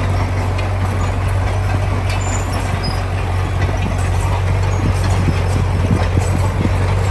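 Heavy diesel earthmoving machinery running steadily under work: a deep engine drone with scattered knocks and rattles over it.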